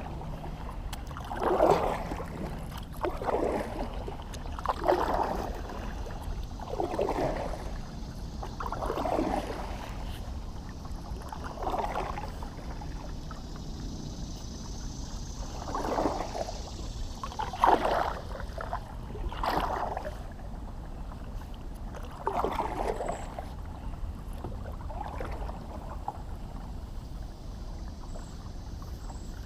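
Kayak paddle strokes dipping and pulling through water, a short swish and splash roughly every two seconds, unevenly spaced, over a steady low rumble of wind on the microphone.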